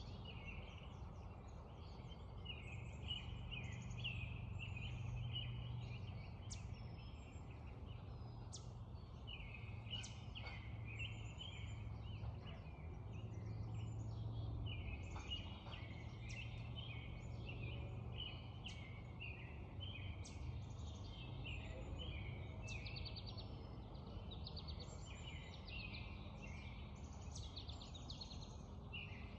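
Dawn chorus of many songbirds: overlapping chirps, trills and short whistled phrases, over a low steady rumble.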